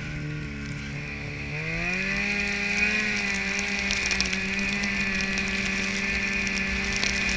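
Snowmobile engine running under throttle, rising in pitch about a second and a half in and then holding at the higher speed, with a steady high whine and light rattling over it.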